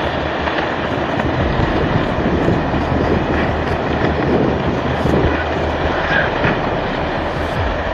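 Landslide rumbling: a loud, steady roar of moving earth and debris.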